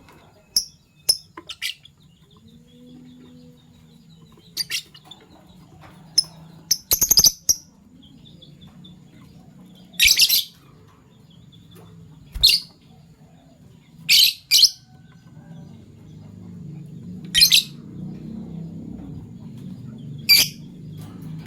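Fischer's lovebirds giving short, shrill chirps, about a dozen at irregular intervals of one to three seconds, over a faint low hum.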